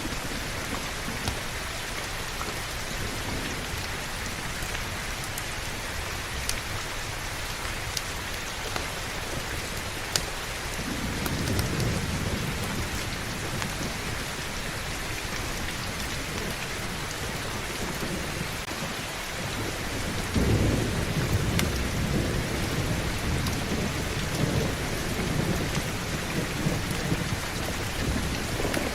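Steady heavy rain with rolling thunder. A low rumble builds about ten seconds in and fades away, then a louder roll begins around twenty seconds in and carries on.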